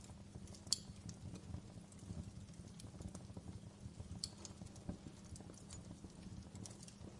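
Wood fire crackling in a fireplace: a low steady rumble of flame under scattered small crackles, with two sharper pops, one about a second in and another about four seconds in.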